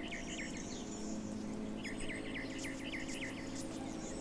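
Birds chirping in runs of quick, repeated short chirps, over a faint steady low hum.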